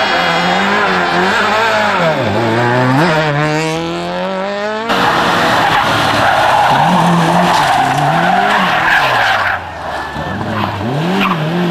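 Rally car engines revving hard, the pitch rising and dropping again and again as the drivers lift and change gear, with tyre skidding noise. About five seconds in the sound cuts abruptly to another car passing, with a louder hiss of tyre and road noise under the engine.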